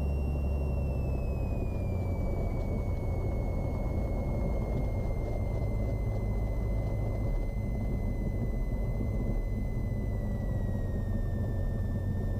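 Cessna 182's piston engine and propeller running steadily at taxi power, a low drone, with a faint high whine that slowly drops in pitch.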